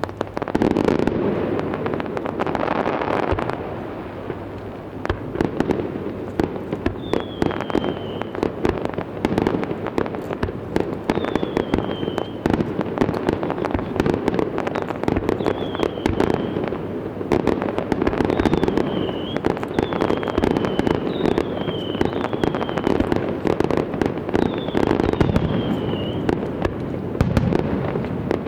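Aerial fireworks display: a dense, rapid run of bangs and pops from many shells bursting at once. Short falling whistles recur many times through the second half.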